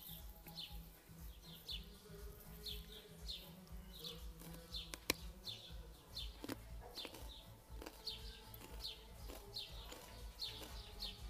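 A small bird chirping over and over, short falling chirps about two a second, over a low steady hum. A single sharp click about five seconds in.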